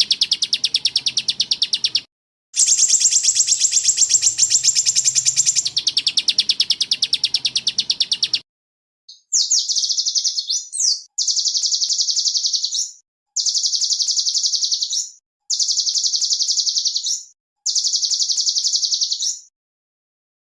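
Small songbird singing very fast, high-pitched rolling trills: two long trills with a brief break about 2 seconds in. After a pause at about 8 seconds come five shorter trill bursts of about two seconds each, evenly spaced.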